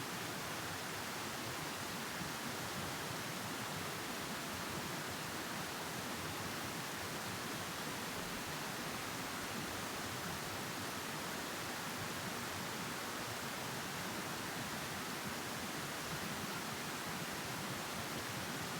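Steady, even hiss with no bird calls or other distinct sounds.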